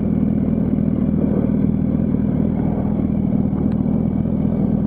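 Yamaha R1's inline-four motorcycle engine running at a steady, unchanging pitch.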